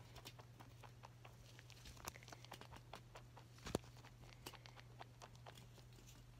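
Faint, scattered small ticks and rustles of pet rabbits moving about with their chew-toy balls, with one sharper click just before the four-second mark, over a faint low hum.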